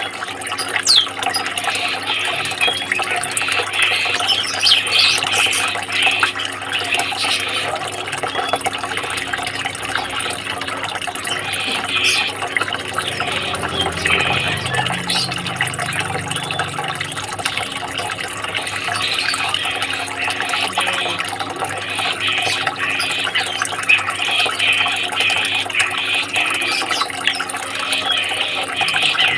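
Dense chorus of many caged songbirds chirping and twittering at once, a steady, unbroken mass of short high chirps.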